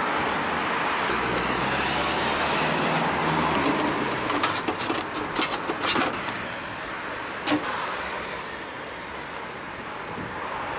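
Street traffic: a motor vehicle passing close, loudest in the first half and easing off, with a brief high whine about two seconds in. A run of sharp clicks comes around the middle.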